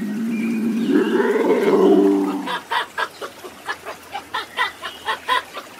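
Animal calls: one drawn-out call that rises and falls in pitch, then, from about two and a half seconds in, a quick series of short sharp calls, about four a second.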